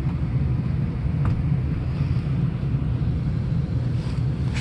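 Gas water heater's main burner running with a steady low rumble, lit after earlier trouble getting it to light. A faint click comes about a second in.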